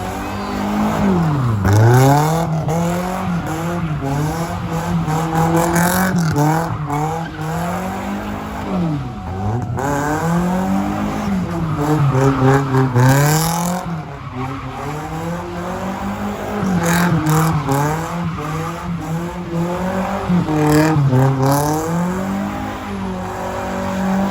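A car drifting: its engine held at high revs, the pitch dropping and climbing again every few seconds, with tyres squealing under wheelspin.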